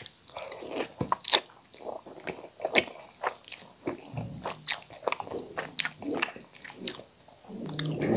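Close-miked eating of noodle soup: wet chewing with irregular sharp mouth smacks and clicks, several a second.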